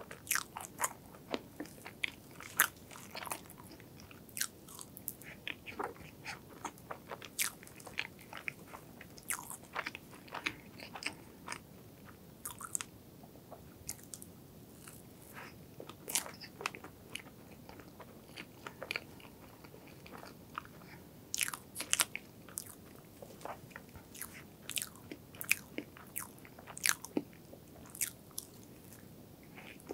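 Close-miked eating of soft strawberry crepe cake with cream: chewing, with sharp, irregular wet mouth clicks coming several times a second.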